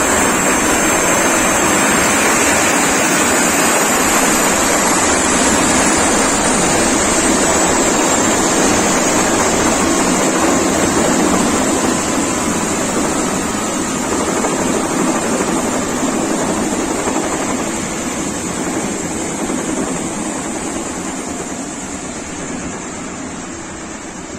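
Rega rescue helicopter's rotor and turbine noise, a dense steady rush with a faint high whine that slowly falls in pitch. The noise holds for about half the time, then fades gradually.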